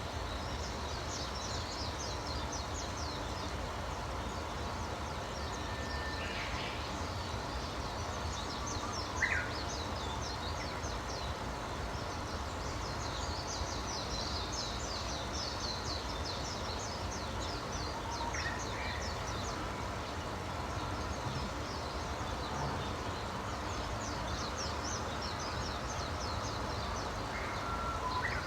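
Wild birds calling: a few short chirps several seconds apart and groups of high, rapid trills, over a constant low background hiss and rumble.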